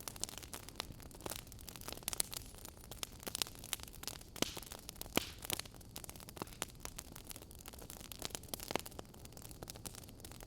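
Wood fire crackling: irregular sharp pops and snaps, several a second, over a low hiss.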